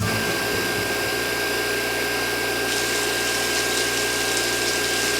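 Small electric motor water pump running steadily, with a constant high whine over a hum and hiss. The hiss grows brighter about halfway through.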